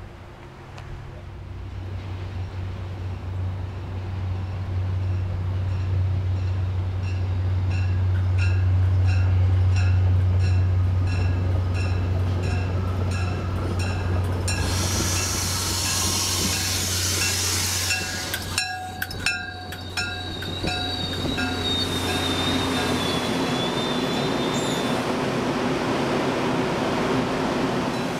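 MBTA commuter rail train pulling into a station platform. Its deep diesel rumble builds over the first ten seconds and holds. About halfway through comes a burst of hiss as the cars come alongside, then a few sharp clacks and a wavering high squeal from the wheels as the train slows. A bell dings steadily throughout.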